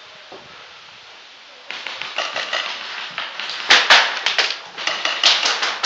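Rapid, irregular volley of paintball shots and paintballs striking nearby, starting about two seconds in and loudest around the middle.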